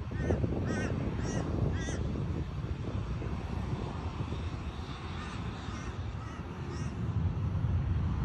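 A bird, crow-like, giving a quick run of about five harsh calls in the first two seconds, then fainter calls a few seconds later, over a steady low rumble.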